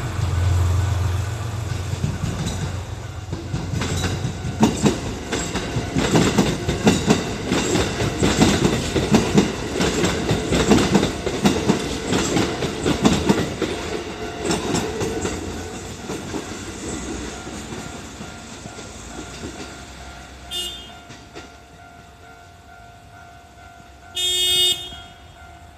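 A Kintetsu electric train passing over a level crossing, its wheels clattering rhythmically over the rail joints, loudest in the middle and then fading away. A steady tone runs underneath, and a short horn blast sounds near the end.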